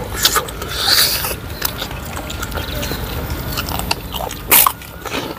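Close-miked eating: wet chewing and smacking of fried chicken eaten by hand, with many small clicks, and one loud sharp crunch of a cracker being bitten about four and a half seconds in.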